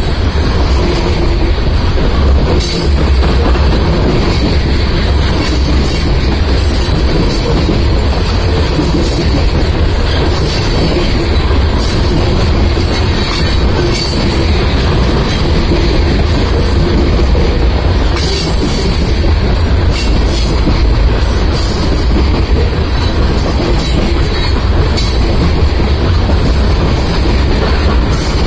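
Covered hopper cars of a freight train rolling past on the track: a steady rumble of steel wheels on rail with repeated clicks.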